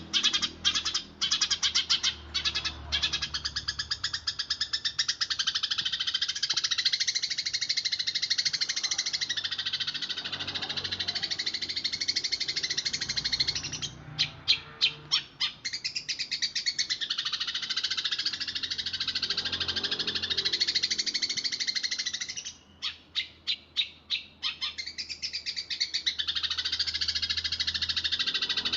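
Eurasian tree sparrow chirping in fast, tightly packed rolls, a near-continuous run of rapid high chirps. About halfway through, and again about four-fifths through, the roll breaks briefly into a run of separate, evenly spaced chirps.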